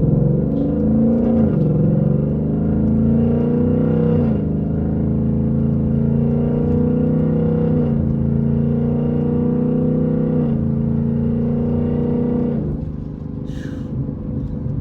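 2024 Mustang GT's 5.0-litre V8 with an H-pipe and muffler delete, heard from inside the cabin with the windows up, accelerating through the gears: a rumble whose pitch climbs in each gear and drops at four upshifts about three seconds apart. The engine note falls away near the end as the throttle is released.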